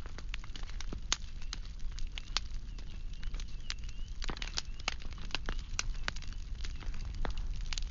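Firewood burning: irregular sharp crackles and pops over a steady low rumble of the fire, with a faint wavering whistle partway through.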